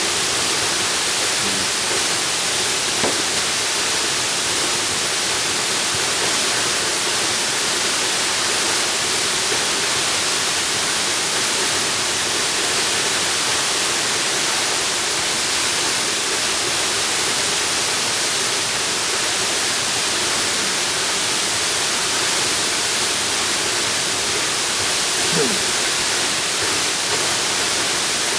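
Jungle waterfall, its falling water making a steady, even rushing hiss.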